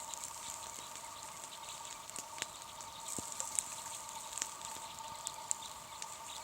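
Wood campfire crackling: scattered sharp pops over a steady hiss.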